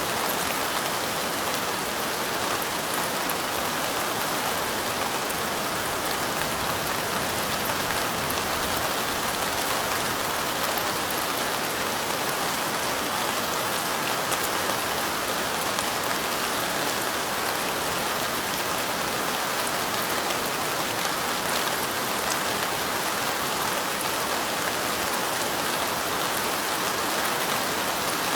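Steady light rain falling: an even hiss with fine ticks of single drops, unchanging throughout.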